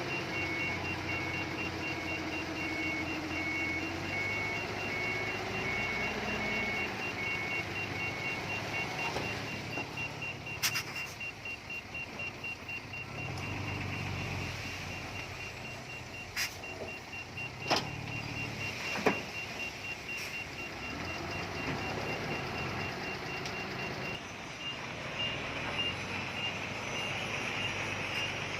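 Diesel engines of heavy earthmoving machinery running, with a regular high electronic beep, like a reversing alarm, for about the first nine seconds. A few sharp metallic clanks come in the middle.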